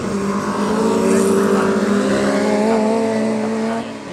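Several historic Formula Junior racing car engines running hard together, their pitches shifting and rising as they accelerate, fading somewhat near the end.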